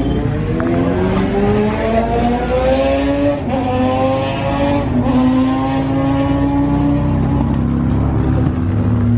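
Motorcycle engine accelerating, its pitch climbing for about three seconds, with two brief breaks like gear changes, then holding a steady pitch and easing off near the end.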